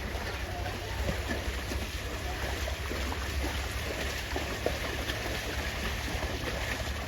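Canal water splashing and lapping around bathing water buffaloes, a steady stream of small irregular splashes, with wind rumbling on the microphone.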